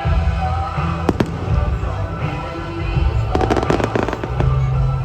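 Fireworks going off with music playing along: a sharp bang about a second in and a dense cluster of cracks and pops around three and a half seconds in, over music with a heavy bass.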